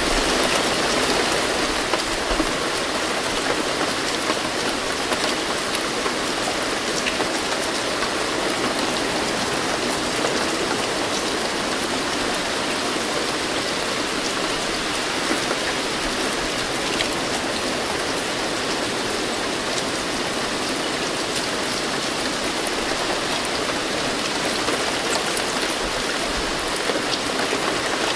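Steady rain falling, a dense even hiss with scattered droplet patter on surfaces.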